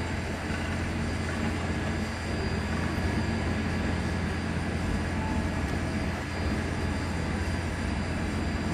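Steady low rumble of a train approaching from a distance.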